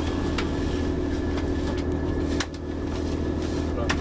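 ScotRail diesel passenger train heard from inside the carriage as it rolls slowly along the platform: a steady engine and equipment hum, with a few sharp clicks and knocks.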